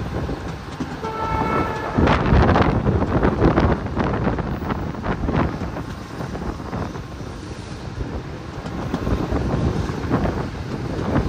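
Moving passenger train: a steady low rumble with wind buffeting the microphone and irregular knocks, loudest about two seconds in, with a brief tone about a second in.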